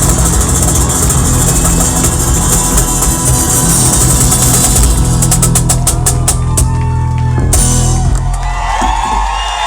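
A live rock band with a drum kit plays. About five seconds in, a run of fast drum strikes builds, and the music stops abruptly about two seconds later. Whooping voices follow near the end.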